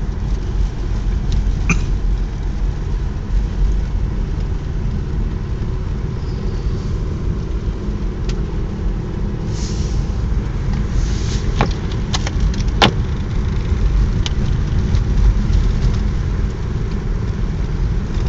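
Car driving up a snowy mountain road, heard from inside the cabin: a steady low rumble of engine and tyres, with a few sharp clicks about twelve seconds in.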